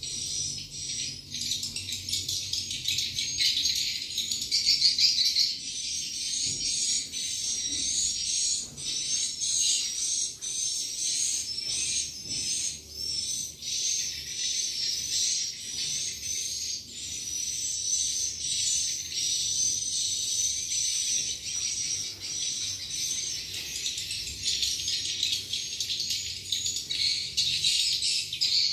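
Swiftlet roosting-call recording: a dense stream of rapid, high chirps and twitters repeating over and over. This is the 'suara inap' lure sound played to draw swiftlets in to roost and nest.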